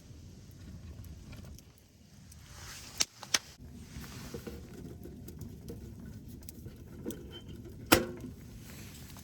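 A few sharp clicks and knocks over a low steady rumble: two about three seconds in, and the loudest, with a short ring, about eight seconds in.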